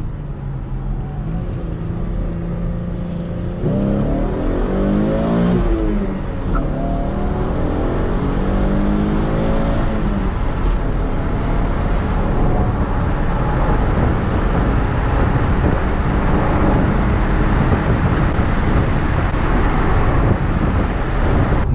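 V6 Chevrolet Camaro on its stock muffled exhaust accelerating at wide open throttle, its engine pitch climbing and breaking at the shifts, with road and wind noise building as the speed rises.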